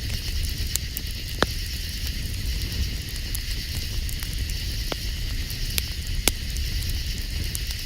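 Campfire crackling, with a few sharp pops scattered through, over a steady high chorus of night insects and a low rumble.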